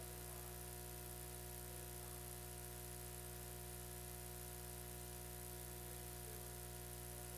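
Steady electrical hum and buzz, many fixed tones over a constant hiss, with no change in level: the noise floor of the recording chain.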